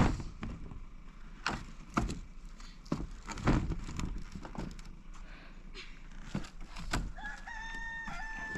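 Scattered knocks and clatter, then near the end a rooster crows: one long held call.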